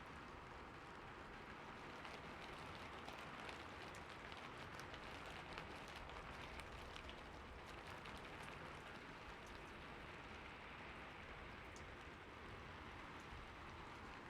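Steady rain falling in a forest, a soft even hiss with many small drops ticking.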